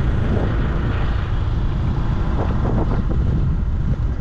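Small motorbike engine running steadily while riding, with wind rumbling on the microphone.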